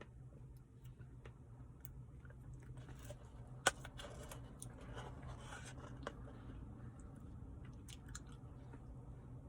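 Faint chewing and crunching of a Reese's Blizzard, with scattered small clicks and one sharp click about three and a half seconds in.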